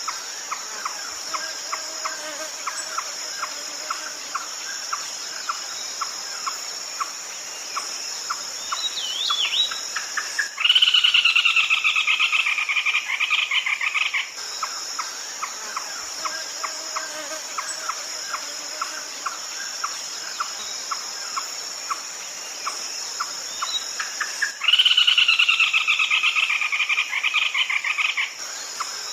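Red-legged crake calling: a steady run of short notes, about two to three a second, twice broken by a loud, rapid chattering series lasting about three and a half seconds. A steady high insect drone runs underneath.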